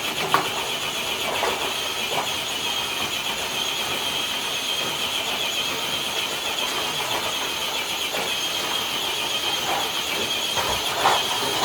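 RC scale crawler truck's electric motor and geared drivetrain whining steadily under load as it drags a weighted dead sled across concrete, with a few light knocks. The whine cuts off at the end of the pull.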